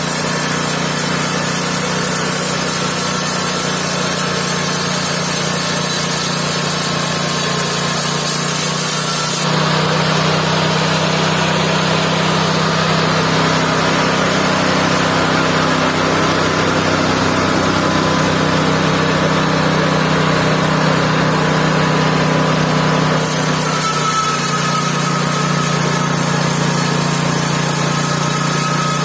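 Mobile band sawmill running steadily under power, its motor and blade making a constant drone. For the middle part, from about nine seconds in to about twenty-three seconds in, the sound changes, losing its hiss, then goes back to how it was.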